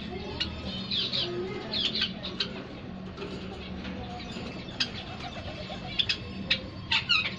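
Caged birds chirping and calling in many short, quick notes, with a low steady hum underneath.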